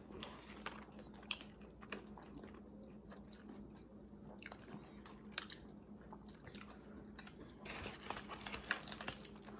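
Close-up chewing and biting of a fried chicken sandwich, with scattered soft crunches of the breading and a busier stretch of crunching near the end.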